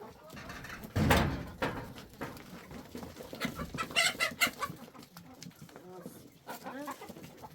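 Chickens clucking in short scattered calls, with a loud thump about a second in.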